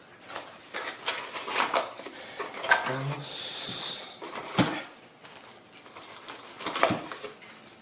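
Hard plastic and metal pieces of a cordless impact wrench kit being handled: scattered clicks and clacks, a short hiss about three seconds in, and two sharper knocks, one near the middle and one near the end.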